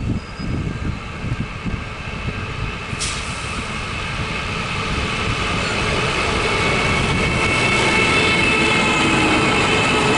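A train approaching and growing steadily louder, with high, steady wheel-squeal tones building over the second half. Gusts of wind buffet the microphone at the start.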